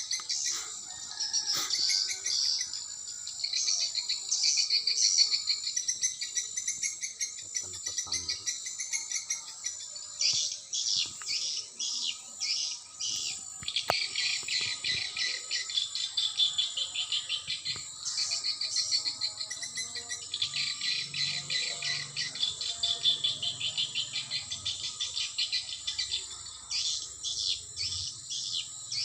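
Swiftlets twittering: dense, rapid high chirps in overlapping runs that stop and start every few seconds, over a steady high-pitched tone.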